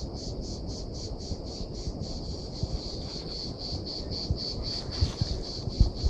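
Insects chirping in a steady pulsing rhythm, about five pulses a second, over a low rumble with a few thumps near the end.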